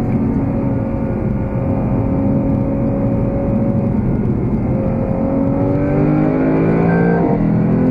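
Lexus GS F's 5.0-litre V8, heard inside the cabin, running steadily under light load, then pulling harder with the revs climbing from about five seconds in. Near the end the revs drop sharply as it shifts up a gear.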